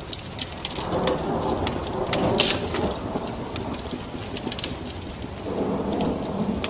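Ambient rain with two low rolling rumbles of thunder, about a second in and again near the end, over a steady hiss dotted with sharp crackles like those of a wood fire.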